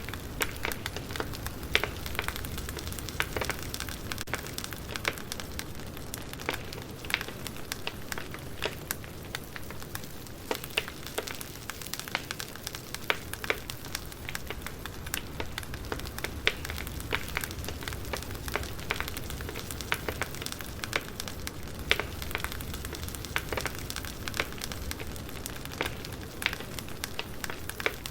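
Wood fire burning, with irregular sharp crackles and pops of burning firewood over a steady low rumble of the flames.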